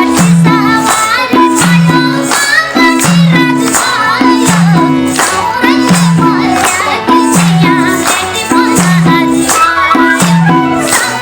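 Live Nepali folk music: a steady repeating beat with tambourine jingles, and a wavering melody line over it.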